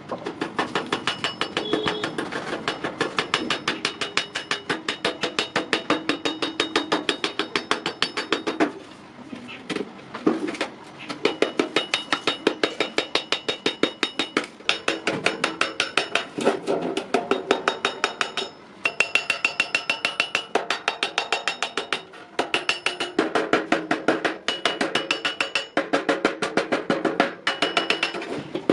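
Rapid, evenly spaced hammer blows on iron, each blow ringing, with a few short pauses between runs of strikes.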